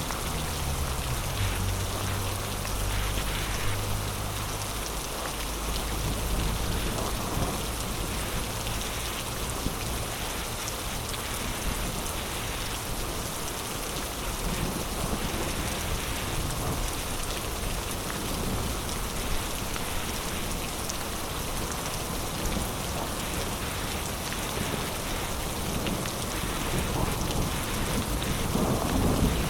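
Heavy rain pouring steadily in a thunderstorm. A low rumble of thunder in the first few seconds dies away, and another rumble builds near the end.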